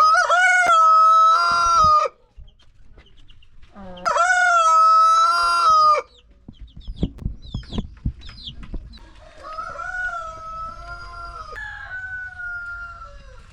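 A rooster crowing: two loud crows, each about two seconds long and held at a steady pitch, a few seconds apart. A fainter, longer crow follows near the end.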